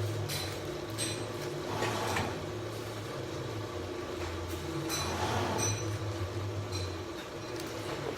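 Motorcycle engine idling through an aftermarket racing exhaust, a deep uneven throb with three brief louder swells about three seconds apart.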